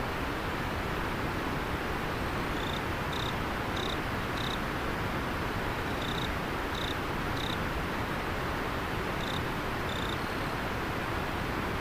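River water flowing steadily, with an insect chirping in short, high notes about two-thirds of a second apart, in three small runs of two to four chirps.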